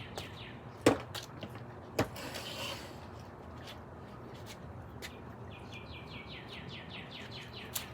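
Two sharp knocks about a second apart, most likely the basketball striking pavement or the hoop. Near the end a bird sings a rapid trill of quick falling notes.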